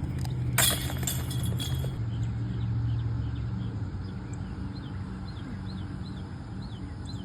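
A bird giving short, falling chirps over and over, about two a second, over a steady low rumble. A brief rustling noise comes about half a second in.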